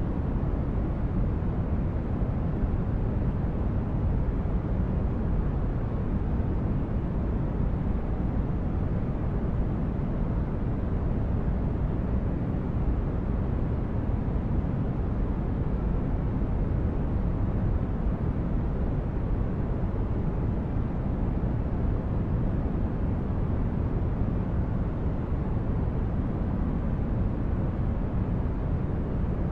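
Steady, unbroken noise for sleep, weighted toward the low end so it sounds deep rather than hissy, with no changes.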